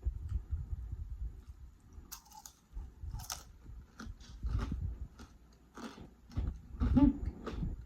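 Close-miked chewing and biting: a person eating with wet mouth clicks and irregular crunches.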